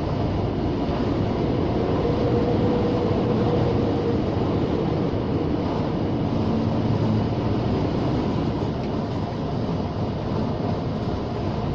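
Cab interior noise of a Scania G460 lorry on the move: the 13-litre straight-six diesel and road noise make a steady drone.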